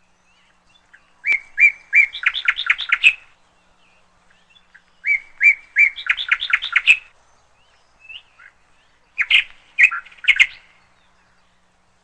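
Canary chirping in three short phrases of quick repeated notes, each a couple of seconds long, a few seconds apart.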